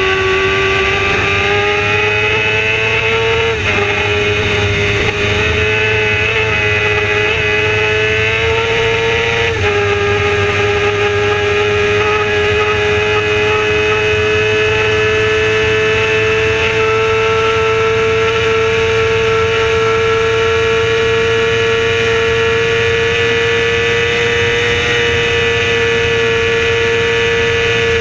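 Racing motorcycle engine at high revs under full throttle, heard from on board. Its pitch climbs, dips briefly about three and a half seconds in and again about nine and a half seconds in as it changes up a gear, then holds high with a slow rise.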